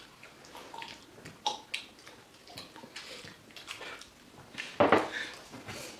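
Close-up chewing and lip-smacking of people eating fresh fruit: scattered short wet clicks and smacks, with one louder sudden sound about five seconds in.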